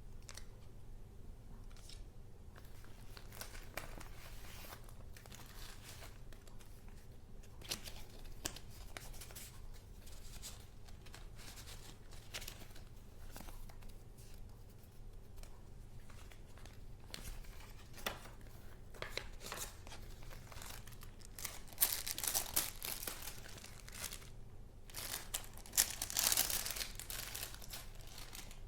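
Paper crinkling and rustling as junk-journal paper goods are handled, with scattered small crackles and clicks and two louder stretches of crinkling near the end.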